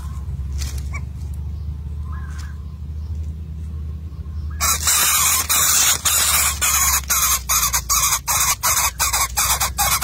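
Bird calls: faint short chirps at first, then, a little before halfway, a sudden loud harsh rasping call broken into rapid pulses that come faster and faster.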